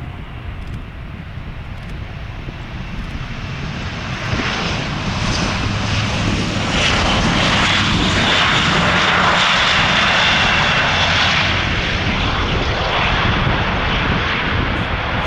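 Airbus A400M's four turboprop engines and propellers, a steady drone that grows louder as the aircraft approaches, is loudest about halfway through and then eases a little.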